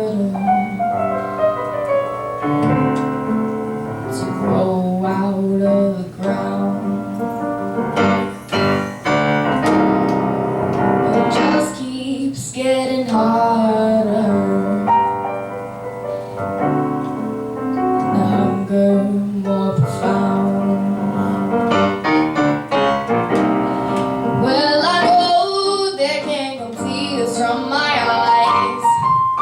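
A girl singing solo with piano accompaniment, her held notes bending in pitch.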